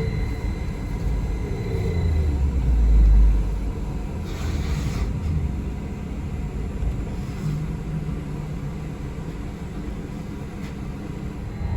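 Steady low rumble of a moving city bus heard from inside the cabin, swelling louder about three seconds in. There is a brief hiss a little after that.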